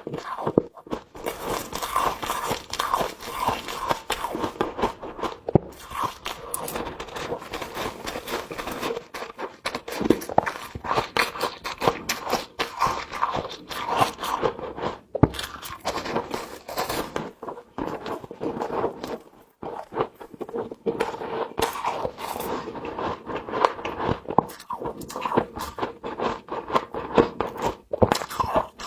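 Frost being scraped loose and bitten, crunching between the teeth: a dense, continuous run of scraping and crunching strokes.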